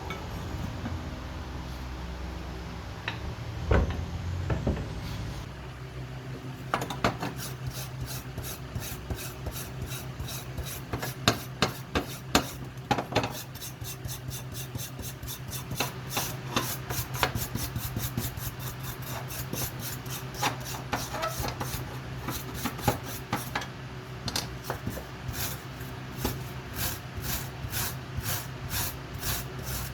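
A blacksmith's vice being filed or scrubbed by hand, a rasping back-and-forth stroke about three times a second that starts some six or seven seconds in, after a few knocks.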